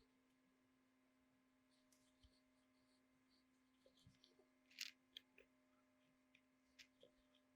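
Near silence: a steady low hum with scattered faint clicks and ticks, the sharpest a little under five seconds in.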